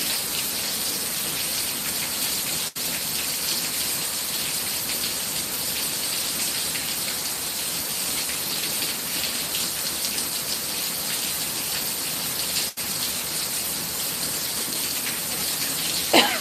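Heavy thunderstorm downpour: torrential rain falling steadily and densely, heaviest in the high, hissing range. The sound cuts out for an instant twice, about ten seconds apart.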